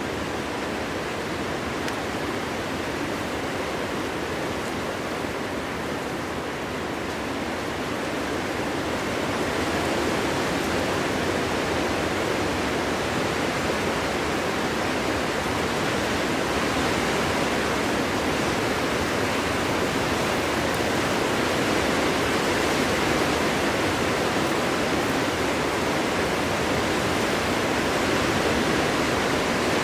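Steady winter wind blowing through forest trees, a continuous even rushing that strengthens about nine seconds in and then holds.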